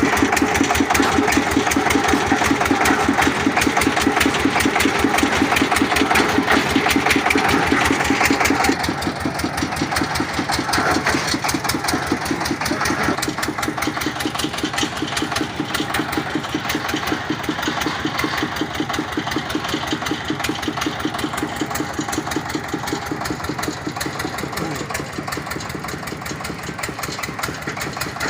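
Engine of a water-well boring rig running steadily, with a fast, even chugging beat. It drops in loudness about nine seconds in and keeps running.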